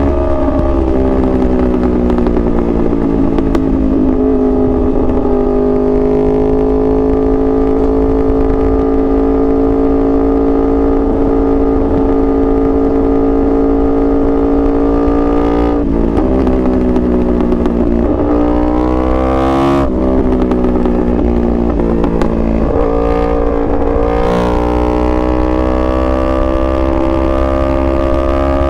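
2021 Yamaha R1's crossplane inline-four running under way. The engine settles at a steady pitch for about ten seconds, then revs up in repeated pulls, each cut short by a brief break at a gear change.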